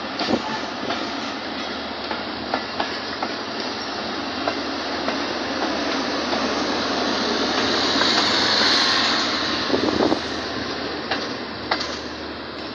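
Train running on the rails: a steady rumble with scattered sharp clicks of the wheels, growing louder toward the middle and easing off near the end.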